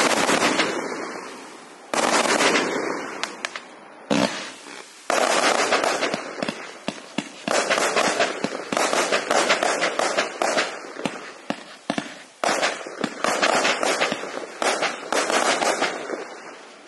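Pyroworx Tour de Force compound firework cake firing from its 20–30 mm tubes: loud shots and bursts, a few spaced ones at first, then a dense rapid barrage from about five seconds in that thins out and fades near the end.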